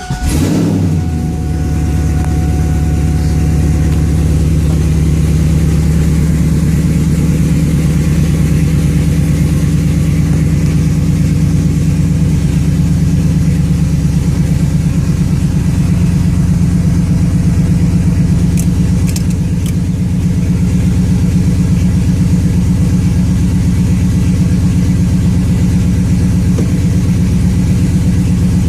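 Car engine breathing through Pacesetter headers into unmuffled dual 3-inch straight pipes with an X-pipe, dumped at the rear axle. It fires right at the start and settles at once into a loud, steady idle.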